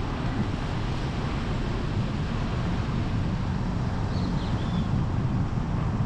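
Steady low rumble of a vehicle moving along the road, with tyre and traffic noise and wind buffeting the microphone. A few faint, brief high chirps come about four seconds in.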